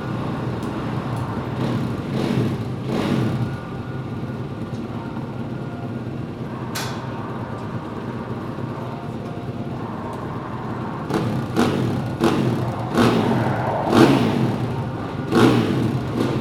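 Honda RC213V MotoGP bike's 1,000 cc four-stroke V4 engine running steadily, then revving sharply several times in the last few seconds.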